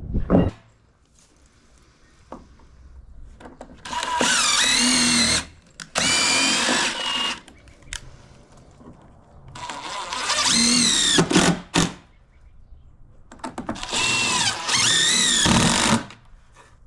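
Power drill running in three bursts of two to three seconds each, its motor pitch wavering as it works under load, with quieter gaps and small knocks between the runs.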